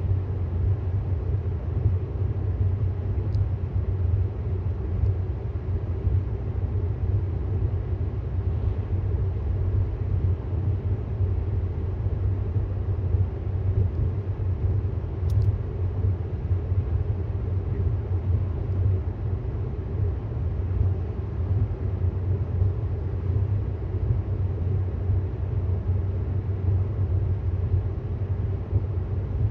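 Steady low road rumble of a 2018 Tesla Model S 75D driving along: tyre and road noise from an electric car, with no engine sound.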